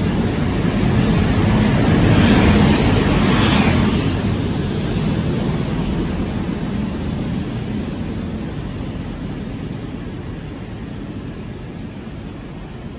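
SNCB double-deck push-pull train with a Class 27 electric locomotive at its rear rolling past on the rails, loudest about two to four seconds in, then fading steadily as it pulls away.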